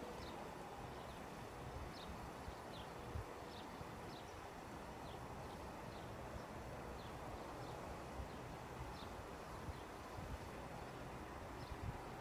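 Quiet outdoor trackside ambience: a steady background hiss with some low rumbling. A small bird gives short, high, falling chirps about once a second.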